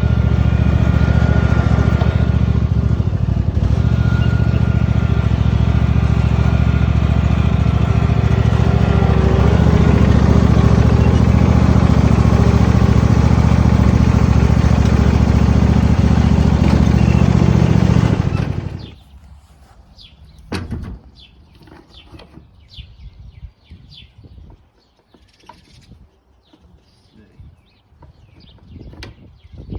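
A steady, loud motor or engine sound that holds an even pitch and cuts off abruptly about eighteen seconds in, followed by quiet handling noises.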